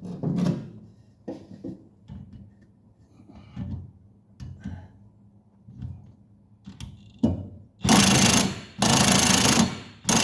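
DeWalt impact wrench hammering on a seized 19 mm blade bolt of a Ventrac Tough Cut mower deck. It comes in three loud bursts of about a second each near the end, and the bolt will not come loose. Before that there are scattered clinks and knocks of metal tools being handled.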